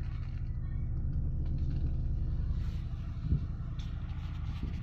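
Stretch limousine's engine running with a steady low hum, heard inside the passenger cabin, with a brief knock about three seconds in.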